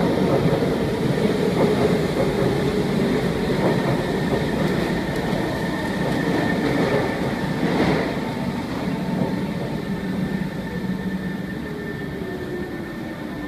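Kawasaki C151 metro train arriving at a station and slowing. Its rumble and motor whine slide down in pitch and fade over the last few seconds, with a thin steady high tone above them.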